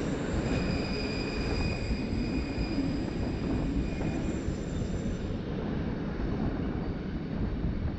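RhB ABe 8/12 'Allegra' electric train running on the rails with a steady low rumble, and a thin high-pitched squeal over it that fades out about five seconds in.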